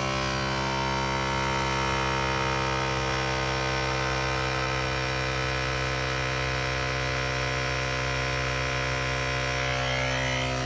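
Small electric piston compressor of an AstroAI MF159 portable tire inflator running with a steady hum, pumping up a car tire.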